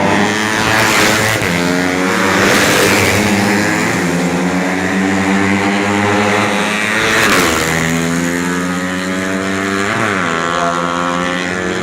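Four-stroke 125 cc underbone racing motorcycles at high revs, more than one engine at once, their pitch climbing and falling through the gears. There are sharp dips in pitch about seven and ten seconds in.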